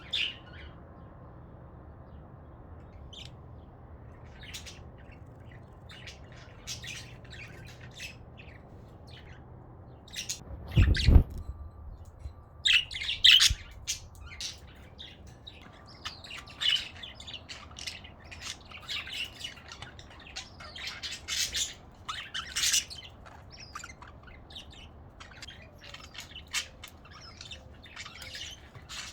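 Budgerigars chirping and squawking, a few calls at first and then a busier run of chirps about twelve seconds in. A single loud thump sounds just before the chirping picks up.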